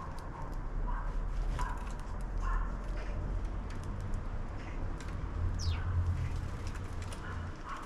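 Outdoor ambience: a short animal call repeating roughly once a second, and one high bird chirp falling in pitch a little past the middle, over a steady low rumble.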